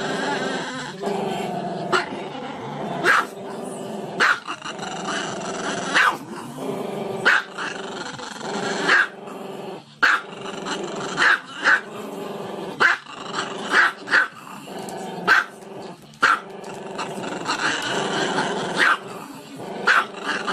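A dog growling continuously and breaking into short, sharp barks roughly once a second, about fifteen in all.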